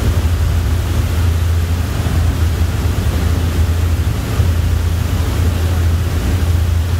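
Passenger ferry under way: a steady low engine drone under the rushing of rough sea waves, with wind on the microphone.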